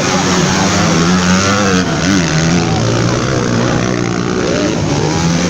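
Motocross bike engines running and revving, their pitch rising and falling as the throttle opens and closes, over a steady wash of noise.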